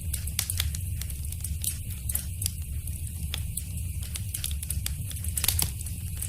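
Wood fire crackling in a fireplace: irregular sharp snaps and pops over a steady low rumble, with the loudest pop about five and a half seconds in.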